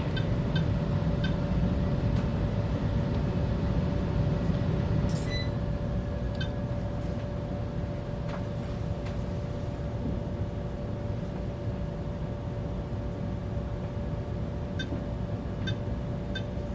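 A steady low mechanical hum with a faint, thin high tone over it, a few faint ticks, and a brief hiss about five seconds in.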